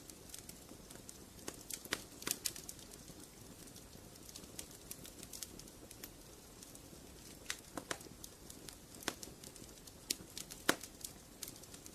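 Wood fire in a fireplace crackling: irregular sharp pops and snaps over a soft steady hiss, with clusters of louder pops about two seconds in, near eight seconds and near eleven seconds.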